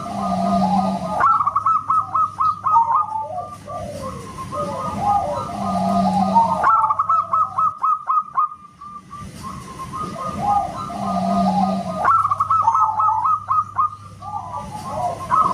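Zebra dove (perkutut) song: a phrase of quick, clipped whistled cooing notes that repeats about every five and a half seconds.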